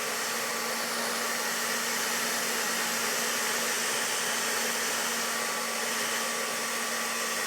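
Hair dryer running steadily: an even rushing hiss with a faint motor hum underneath, blowing on a cat's fur.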